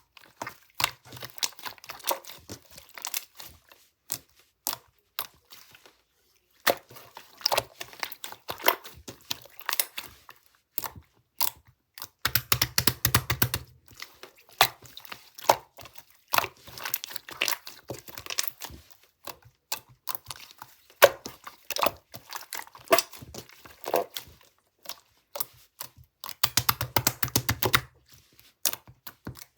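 Close-up crinkling and tearing of paper or plastic being handled, coming in bursts of dense crackles with short pauses between them, and two denser, louder bursts about 12 and 27 seconds in.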